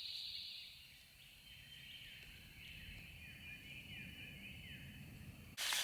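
Woodland ambience: a songbird repeating a short falling whistled note over and over, over a faint low rumble. A high steady trill fades out in the first second, and a sudden rush of noise cuts in at the very end.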